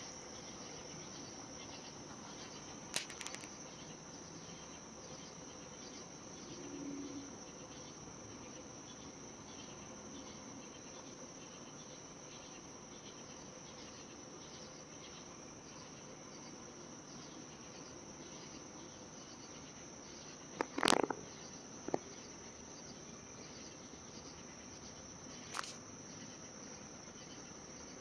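Crickets trilling steadily in a high, even chorus, broken by a few brief sharp clicks, the loudest about two-thirds of the way through.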